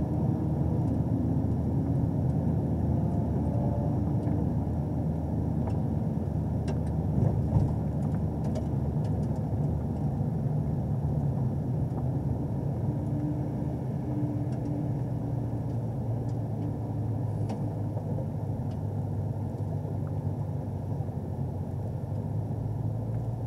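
Camaro ZL1's supercharged 6.2-litre V8 running steadily at low revs, around 1,000 rpm, while the car creeps along at low speed, heard from inside the cabin.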